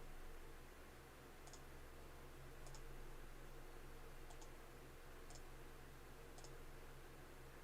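Near silence with a steady low hum, broken by five faint, sharp clicks about a second apart, one of them a quick double click.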